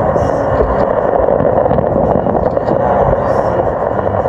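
Fireworks going off continuously, a steady dense din with no single bang standing out.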